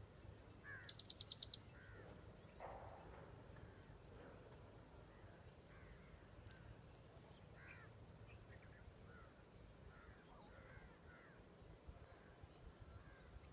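Wild birds calling faintly across open farmland: a brief rapid high-pitched trill about a second in, then scattered distant chirps and calls.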